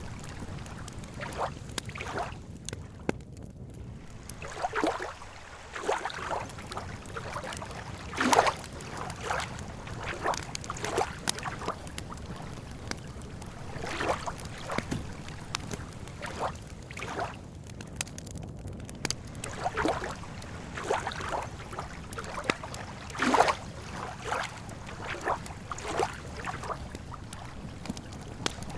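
Campfire crackling and popping in an irregular scatter of sharp snaps, two of them much louder about 8 and 23 seconds in, over a steady low wash of lake water lapping.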